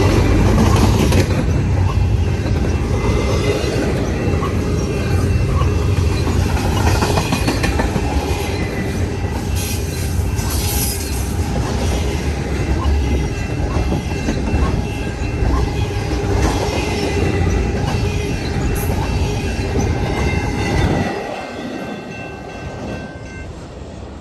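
A long freight train of grain hoppers and intermodal cars rolls past with a heavy, steady rumble of wheels on rail. Thin, steady, high wheel squeals sound over the rumble. The rumble drops off sharply near the end.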